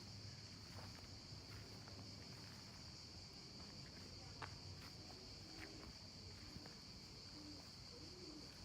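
Faint, steady, high-pitched chorus of insects, with a low background rumble.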